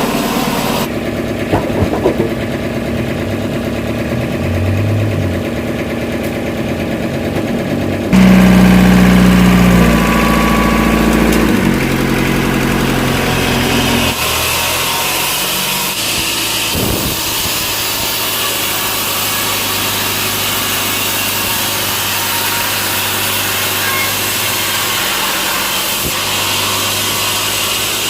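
An engine running steadily. About 8 seconds in it gets louder and deeper for several seconds, and from about 14 seconds on it settles into a steadier, hissier machine noise.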